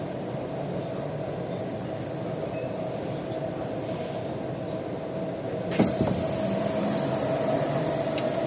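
Metro train running, a steady rumble with a held hum. About two-thirds of the way through a sudden thump comes, then a hiss joins, with a couple of sharp clicks near the end.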